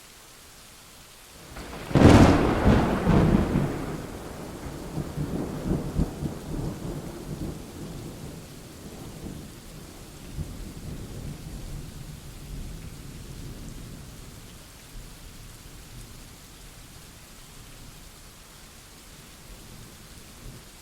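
A sharp clap of thunder about two seconds in, followed by rumbling that rolls on and slowly fades over the next ten seconds or so, over a steady hiss of rain.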